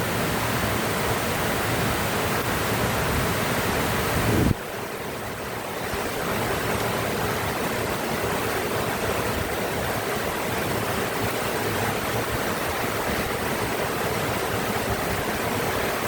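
Heavy rain pouring down in a steady, loud hiss. The sound drops suddenly about four and a half seconds in, then builds back up over the next couple of seconds.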